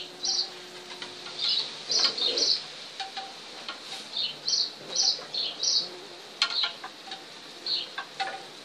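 Small birds chirping: quick high chirps in little clusters, some dipping in pitch, with a few faint clicks.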